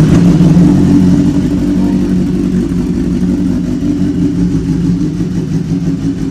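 A 2014 BMW S1000RR's inline-four engine idling steadily just after being started, loud and even in pitch, easing off slightly in loudness.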